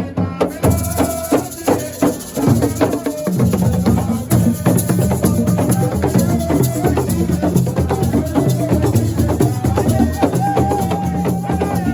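Live band music driven by dense, fast percussion (drums with sharp wood-block-like clicks and shakers) over a bass line. A long held note comes in near the end.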